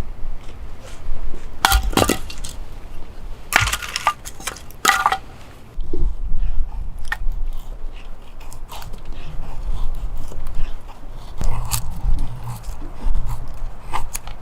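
Camp gear being handled: a string of clinks and knocks, with the loudest ones in the first third, over a steady low rumble.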